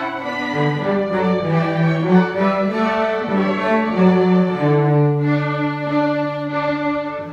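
Bowed string ensemble playing, with violins and cellos: a run of shorter notes, then a long held chord near the end.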